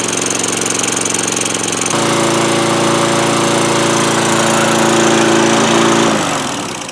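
Tecumseh small engine on a Craftsman walk-behind lawn mower running steadily, a worn engine low on compression that has just been treated with Engine Restore. It steps up in level about two seconds in, then is shut off about six seconds in, its pitch falling as it winds down.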